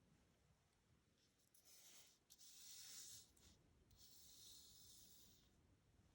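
Faint rustle of paper cut-out letters being slid on a table, twice: once about two seconds in and again about four seconds in.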